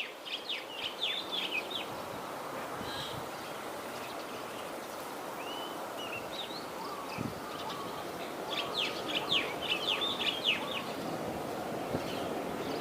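Small birds chirping in two quick flurries of short downward-sweeping notes, one at the start and one a little after halfway, over a steady outdoor background noise.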